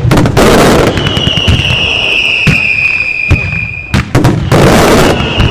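Fireworks going off in rapid succession: loud bangs and dense crackling, with a high steady whistle over them that sets in about a second in, breaks off about four seconds in and comes back near the end.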